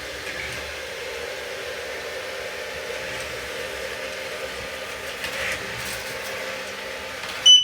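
GUTREND FUSION 150 robot vacuum running with a steady motor hum and whir. It ends with a short high beep near the end, and then the sound cuts off.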